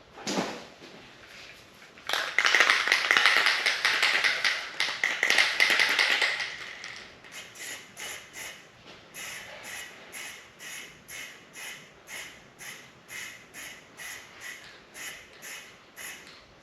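Aerosol can of HyperDip peelable coating spraying a light mist coat: a continuous hiss for about four seconds from about two seconds in, then a run of short, quieter puffs at about one and a half a second.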